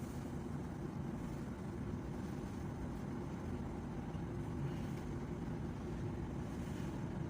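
Steady low rumble of a vehicle's engine idling, heard inside the cab with the air conditioning running.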